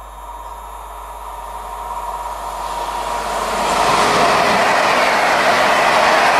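A train approaching on the track, its rail and wheel noise growing louder over the first four seconds or so, then loud and steady as it comes close by.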